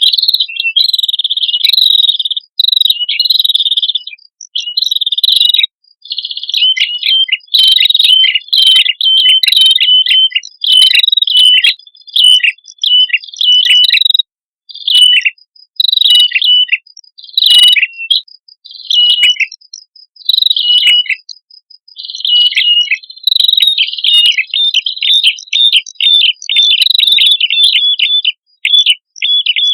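Prenjak kepala merah, male and female, calling: rapid runs of high, sharp chirps, many sliding down in pitch, in near-continuous bursts with short gaps.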